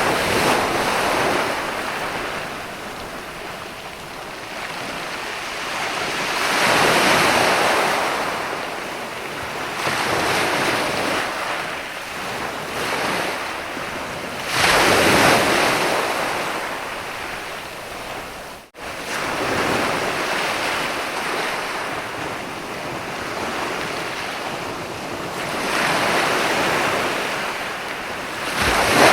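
Sea waves breaking and washing up a sandy beach, swelling and falling back every few seconds, the largest break about halfway through. A momentary dropout cuts the sound about two-thirds in.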